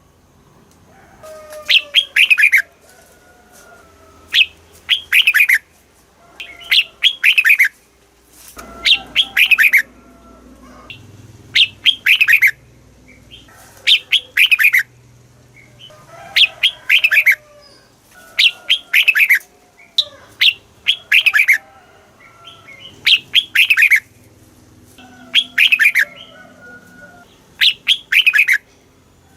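Red-whiskered bulbul singing: short, loud phrases of quick whistled notes that fall in pitch, repeated about every two seconds. It is a recorded song played to rouse or train caged bulbuls.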